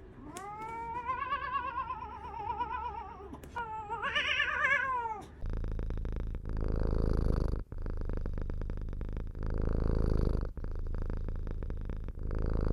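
A domestic cat gives a long, wavering meow, then a shorter rising one. After that comes loud close-up purring that swells and breaks with each breath, about every second and a half.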